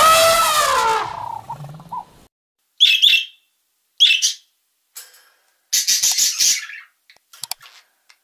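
Elephant call falling in pitch at the start. Then a budgerigar's short chirps about three and four seconds in, and a rose-ringed parakeet's harsh screech around six seconds in.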